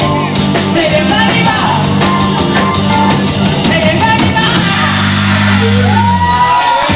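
Live rock band, with drum kit, bass, electric guitar, keyboards and a lead singer, playing the closing bars of a song. The bass and low chords stop a little after six seconds in, leaving a held, wavering high part.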